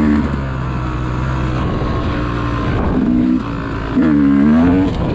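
Motor vehicle engine running steadily, with a few short revs whose pitch dips and climbs again: one near the start, one about three seconds in, and a longer one about four seconds in.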